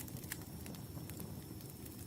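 Wood fire burning in a fireplace: a steady low rumble of flame with scattered sharp crackles and pops, several in two seconds.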